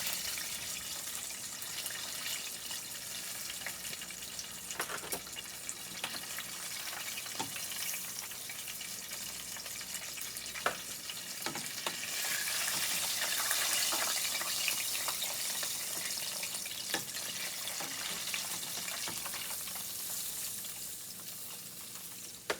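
Chicken frying in hot oil, a steady sizzle that swells louder for a few seconds past the middle, with scattered light clicks and knocks while the pieces are being taken up out of the pan.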